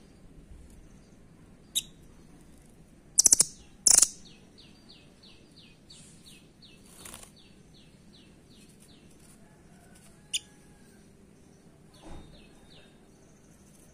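Velvet-fronted nuthatch (rambatan) calling: sharp single calls, then a run of quick down-slurred notes, about four a second, lasting several seconds, and a shorter run near the end. Two loud, sharp bursts come about three and four seconds in.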